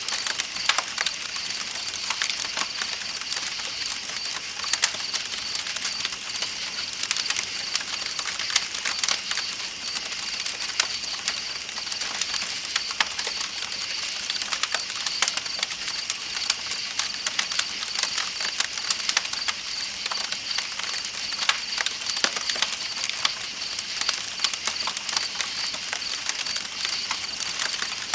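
Campfire crackling with frequent sharp pops, layered over night insects chirping in a steady high trill and the even rushing of a river.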